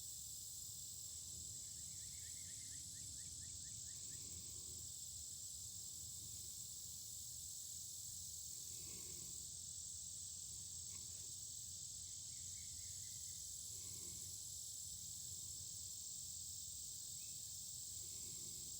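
Steady high-pitched insect chorus over the even hiss and low rumble of a running creek, with a short trill of quickly repeated notes from a bird twice.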